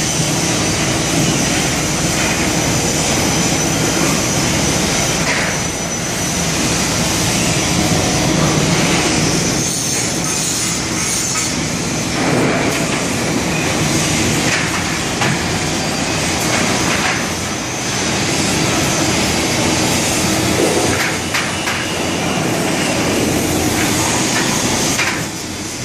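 Steady industrial machinery noise on a cylinder-block production floor, with a constant high whine and a few brief metallic clanks.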